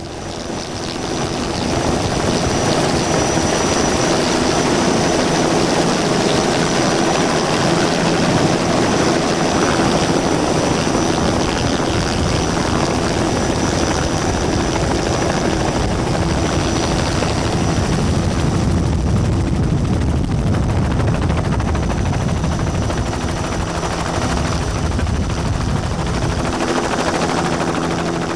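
Helicopter engine and rotor running steadily and loudly, building up over the first couple of seconds.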